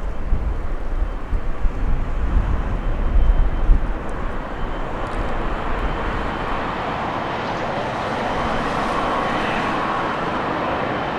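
Gusty wind buffeting the microphone with a low rumble, giving way after about five seconds to the rising whine and rush of a landing Boeing 777's jet engines drawing nearer.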